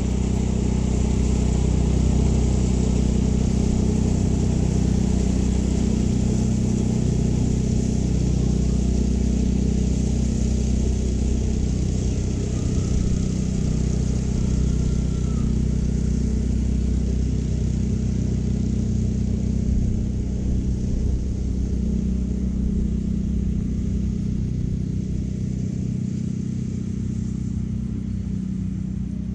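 California Trimmer gas-powered reel mower running steadily while cutting short Bermuda grass: a constant engine drone under the whir of the spinning reel.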